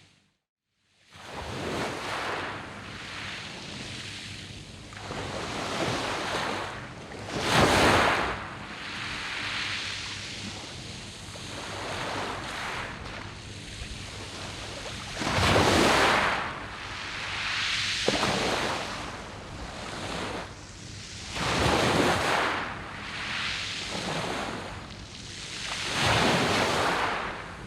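Sea waves breaking and washing over a beach of smooth round pebbles (mongdol), in slow surges. The loudest waves come about 8, 16, 22 and 26 seconds in, after about a second of silence at the very start.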